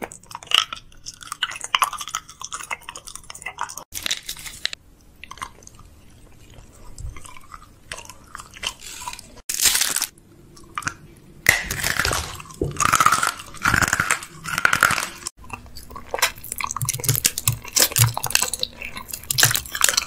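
Close-miked chewing and crunching of sweets, in several short clips, with a foil sweet wrapper crinkling about halfway through.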